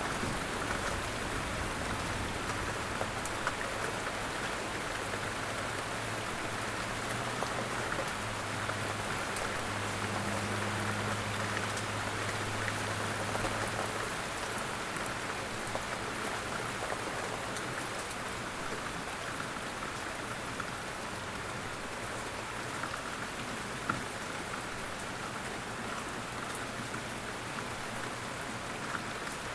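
Steady rain falling on a surface, an even patter of drops with no breaks. A faint low hum runs underneath and fades out about halfway.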